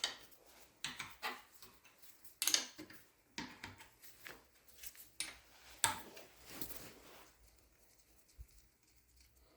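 Scattered light metallic clicks and knocks of tools and small engine parts being handled while the cam followers are taken out of a Gardner 2LW diesel engine, dying away after about seven seconds.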